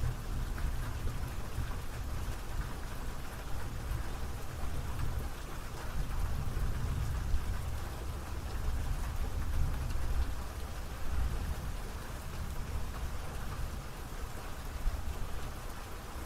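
Steady rain falling, a continuous even hiss of drops, with a low rumble underneath that swells and eases.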